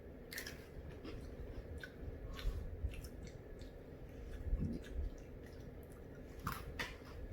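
People crunching and chewing crisp Pretz Kona coffee biscuit sticks, in faint, irregular crunches.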